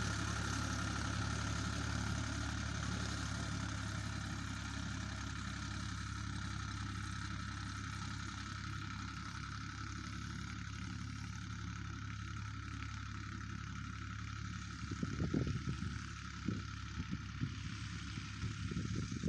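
Ford 3600 tractor engine idling steadily. In the last few seconds irregular knocks and thumps sound over the idle.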